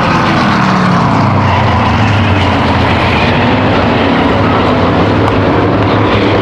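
A pack of V8 stock cars and trucks racing on an oval, their engines running hard at high revs in one dense, loud sound. An engine note falls in pitch in the first second or so as a car goes by.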